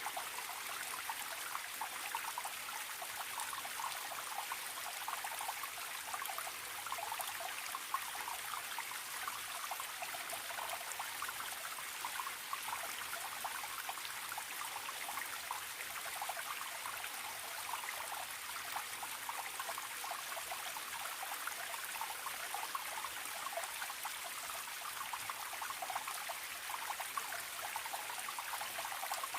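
Forest stream trickling and babbling steadily over stones, an even rush of running water.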